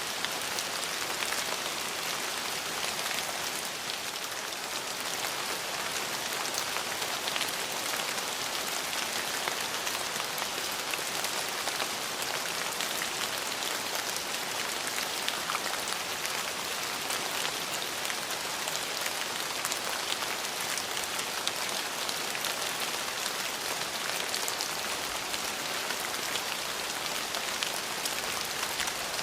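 Steady rain falling: a constant hiss dotted with many small drop ticks.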